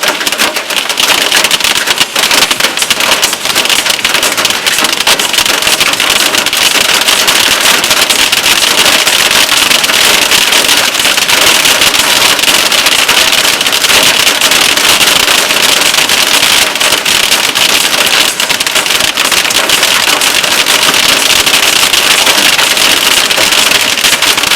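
Heavy summer rain mixed with hail pelting down: a loud, dense patter of countless small hits that keeps up steadily.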